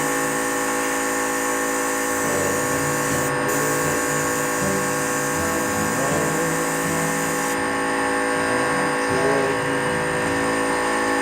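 Electric paint spray gun running steadily with a continuous motor whine while spraying white paint.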